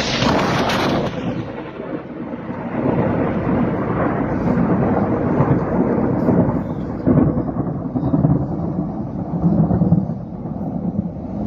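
A sharp clap of thunder at the very start, going into a long, low rolling rumble that swells and fades several times.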